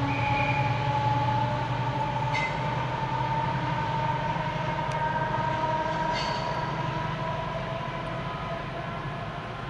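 British Rail Class 70 diesel-electric locomotive running light, its V16 engine droning under a whine that slowly rises in pitch, gradually fading as it moves away. Two short high squeals about two and six seconds in.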